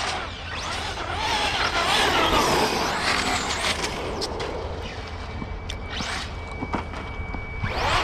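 Electric RC cars' motors whining, the pitch rising and falling as they accelerate and slow down, with a few sharp clicks.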